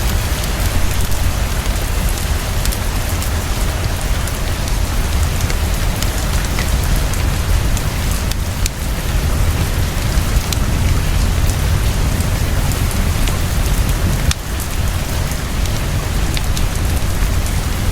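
Heavy, steady rainfall with a deep continuous low rumble underneath and scattered small sharp clicks.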